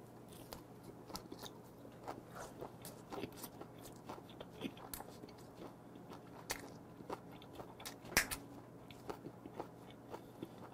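Close-up chewing of a mouthful of dried saury gwamegi wrapped in kelp with green onion: soft, scattered crunches and mouth clicks, with one sharper crunch about eight seconds in.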